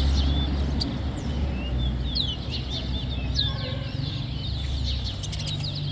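Small songbird singing rapid high chirps and short whistled phrases, the repeated song of a bird-song race, over a low steady hum.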